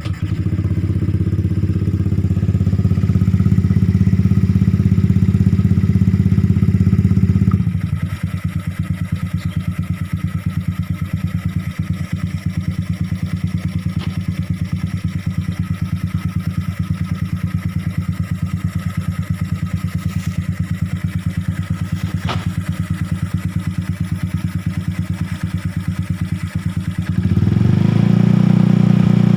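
Motorcycle engine running through an aftermarket Daeng exhaust just after starting. It holds a fast idle for several seconds, then drops to a steady low idle with an even exhaust beat. Near the end the revs rise again and hold at a higher speed.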